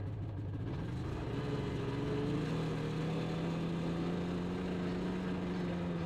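2000 Yamaha PZ500 Phazer snowmobile's two-stroke twin engine running under way. Its pitch rises about a second in, then holds steady.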